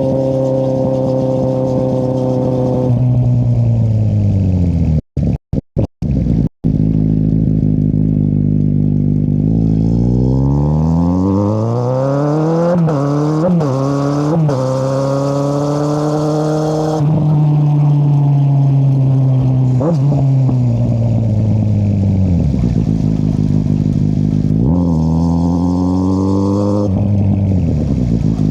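2013 Kawasaki Z800's inline-four engine through an Akrapovic exhaust with the dB killer removed. The engine note falls as the bike slows, then it accelerates with three quick upshifts, holds a cruise, slows again and revs up briefly near the end. The sound cuts out for a moment several times about five to six seconds in.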